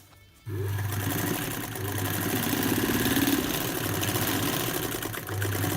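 Vintage cast-iron Singer electric sewing machine stitching fast through four layers of thick leatherette: a steady motor hum with a rapid run of needle strokes, starting suddenly about half a second in.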